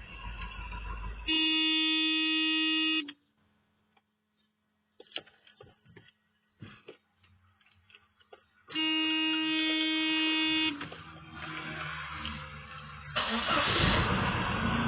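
Car horn sounding twice, each a steady blast of just under two seconds, with scattered clicks in the quiet between. A louder rush of noise comes in near the end.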